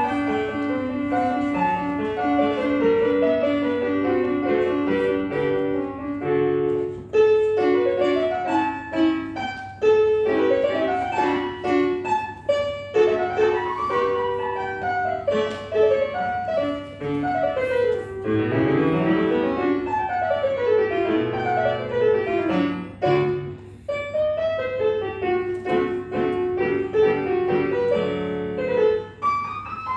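Solo acoustic piano playing a classical piece, with quick rising and falling scale runs about halfway through.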